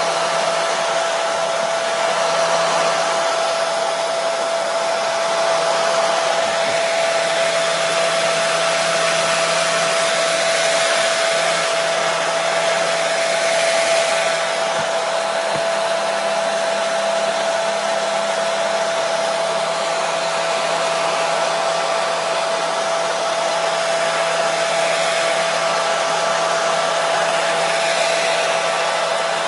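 Hand-held hair dryer running steadily: an even airy rush with a steady whine from the motor, played as white noise to soothe a baby to sleep.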